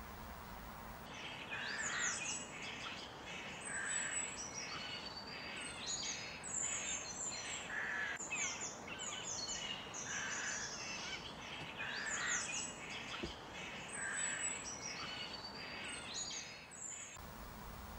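Birdsong: a phrase of chirps and downward-sliding high whistles, repeated about every two seconds, starting about a second in and stopping about a second before the end.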